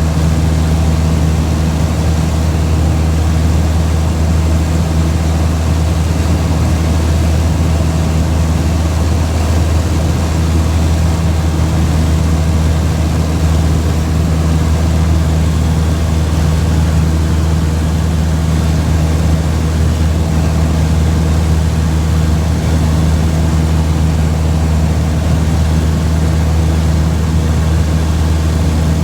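Steady low engine drone of a running vehicle, with an even noise over it and no change in pitch.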